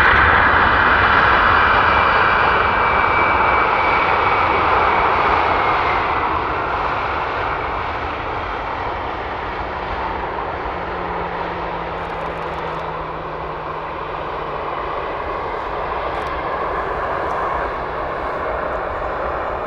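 Jet airliner passing close on arrival, its engine noise a loud rush with a faint high whine, slowly fading over the first several seconds and then holding steady.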